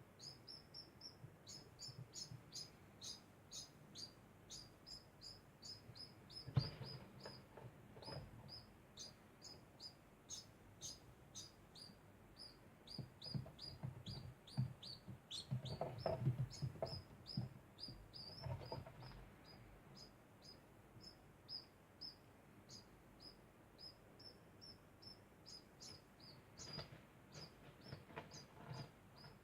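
Degu chirping over and over in short, high squeaks, several a second without a break. Low rustles and knocks come in now and then, loudest about halfway through.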